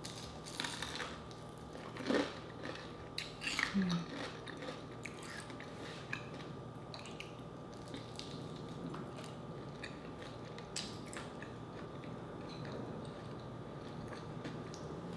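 Close-up eating sounds: crispy fried chicken being bitten and chewed, with the loudest crisp crunches in the first four seconds, then quieter chewing with occasional small clicks.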